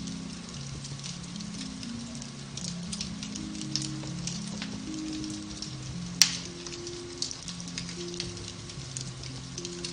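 Beech wood fire crackling in a fireplace, with scattered small snaps and one loud pop about six seconds in, over soft, slow background music holding low notes.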